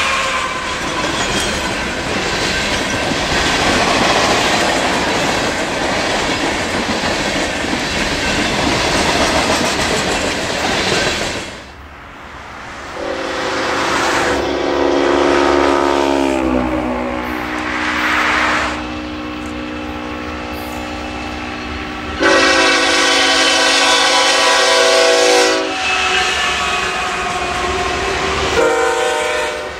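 A freight train rolling past close by: a steady rumble with wheels clattering over the rail joints. About twelve seconds in this gives way to an approaching freight's diesel locomotive air horn, a chord of several notes sounded in long blasts. The horn's pitch drops partway through; a loud blast follows and a short one near the end.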